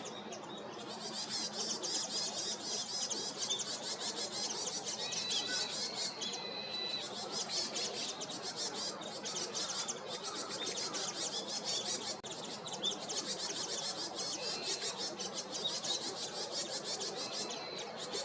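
Many small birds chirping densely and continuously, a flock chorus of rapid high notes, with a few short steady whistled notes in the middle.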